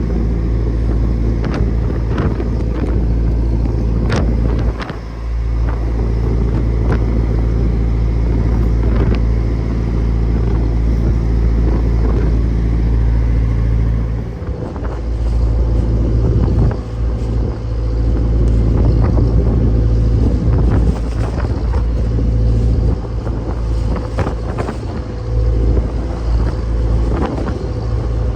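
Fishing boat engine running steadily, a loud low drone, with scattered knocks and clatter over it.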